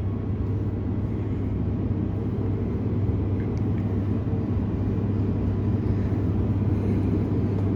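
Steady low hum and rumble inside a Transperth B-series electric multiple-unit train creeping along at very slow speed.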